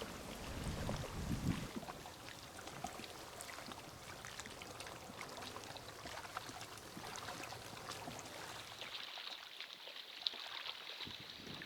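Small waves lapping and trickling at the water's edge, with many small splashes. Wind buffets the microphone with a low rumble in the first second or two.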